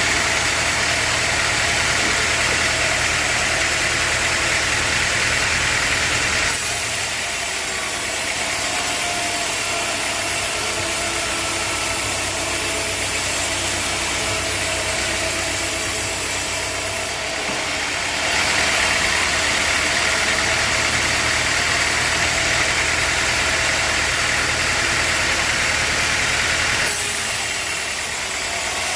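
Sawmill machinery running steadily: an engine-like hum with a high hiss over it. The sound changes abruptly three times, at about six, seventeen and twenty-seven seconds in.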